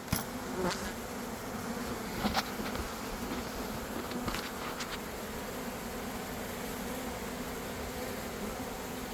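Swarm of honeybees humming steadily at a constant pitch, with a few short knocks or scrapes in the first half.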